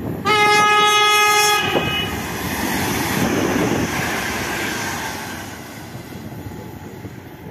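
PESA Elf electric multiple unit sounding one loud horn blast of about a second and a half on a single pitch, then passing with the rush and rumble of its wheels on the track, swelling and fading away.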